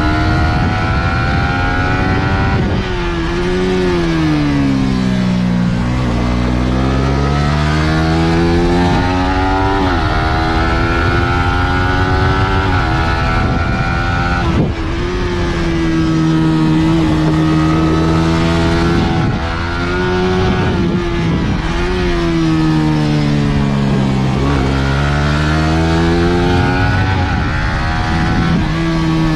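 Suzuki GSX-R150's 150 cc single-cylinder engine at high revs while lapping a circuit. Its pitch drops twice as the bike brakes and downshifts for corners, then climbs again through the gears as it accelerates.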